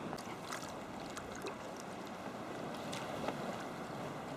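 Water splashing and sloshing around a sea kayak being paddled through swell, with small, scattered splashes and drips from the paddle.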